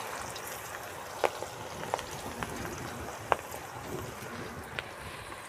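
Besan-coated okra (bhindi) pieces sizzling as they deep-fry in hot oil in a kadhai, a steady sizzle with a few sharp pops.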